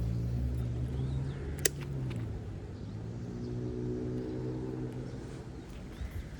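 A motor vehicle engine running steadily, its pitch dropping a little about two seconds in and then shifting higher before it fades. A single sharp click comes partway through.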